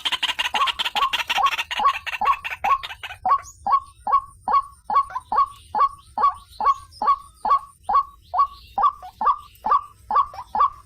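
White-breasted waterhen (ruak-ruak) calling: a rapid chattering run of notes that settles into a long, even series of short repeated calls, about two or three a second.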